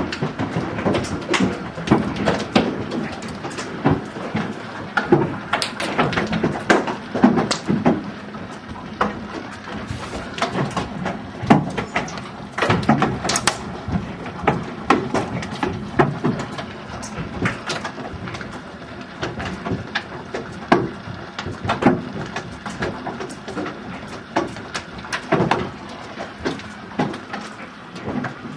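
Hailstones pelting hard surfaces in a dense, irregular clatter of sharp impacts over a steady rushing noise.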